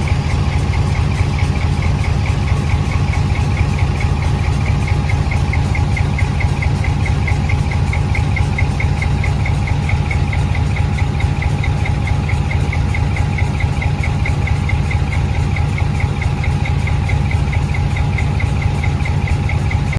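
A vehicle engine idling steadily close by, with a fast, even pulsing beat.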